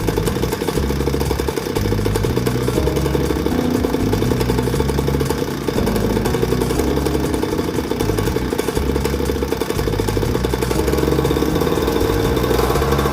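Pocket bike's small single-cylinder engine running steadily with rapid, even firing.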